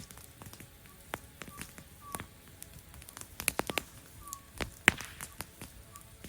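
Wood campfire crackling, with irregular sharp pops and snaps, a quick cluster of them about halfway through and one loud pop near the end.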